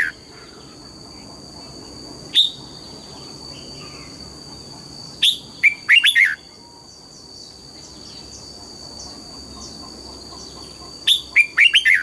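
Red-whiskered bulbul singing loud phrases of quick, down-slurred whistled notes: one note about two seconds in, a burst of several about five to six seconds in, and another burst near the end. A steady high-pitched whine runs underneath.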